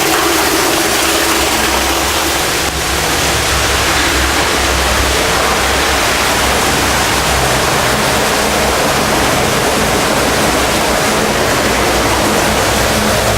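Air-powered hydraulic drive of a pneumatic ATEX stacker truck running under its airline, a loud, steady rushing hiss over a low hum.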